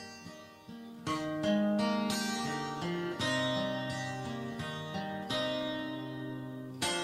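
Acoustic guitar music with picked notes and strummed chords, a new chord struck about every two seconds.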